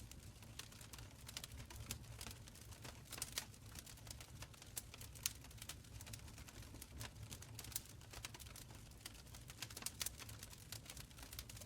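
Wood fire in an open stone fireplace crackling softly: irregular sharp pops and ticks over a low steady rumble of the flames.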